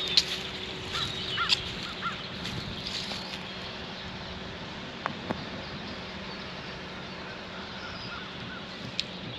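Outdoor background with a few short bird calls, a small cluster about a second in and more near the end, over a steady low hum and the odd sharp click.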